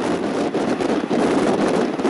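Steady rushing noise of a moving passenger train, with wind buffeting the microphone.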